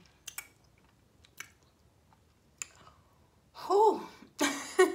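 Close-up chewing with a few short, wet mouth clicks, then a woman's voice starts near the end.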